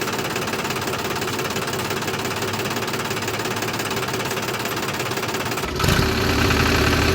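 Mini tractor's engine running steadily with a rapid knocking chug. About six seconds in it changes abruptly to a louder running sound with a steady hum.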